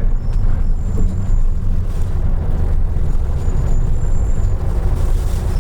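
2003 Isuzu Erga Mio (KK-LR233J1) city bus running, heard from inside: a steady low engine and road rumble.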